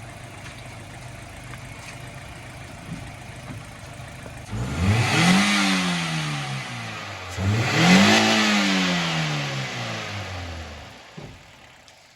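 2015 Toyota Corolla GLi engine idling, then revved twice in quick blips, each rising and falling back to idle, before it is switched off near the end. The mechanic judges it running fine after the repair of its sound problem.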